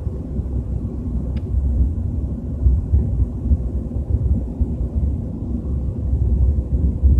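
Low, uneven rumble inside the cabin of a moving BMW 320i, the strange rumbling the owner notices at 30 to 40 km/h, with its energy at the very bottom of the range. A single faint tick about a second and a half in.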